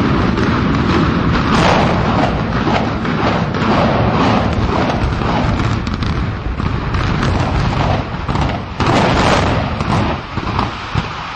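A loud, continuous rumble packed with rapid booms and bangs, with a heavier flurry about nine seconds in.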